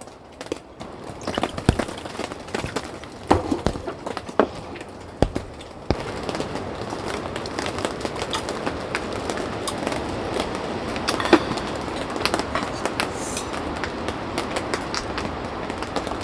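A few scattered knocks and clicks, then from about six seconds in a steady crackling hiss dotted with small pops.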